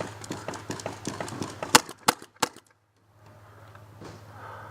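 Paintball markers firing: a rapid clatter of shots, then three loud, sharp close shots in quick succession about two seconds in, followed by a brief silence.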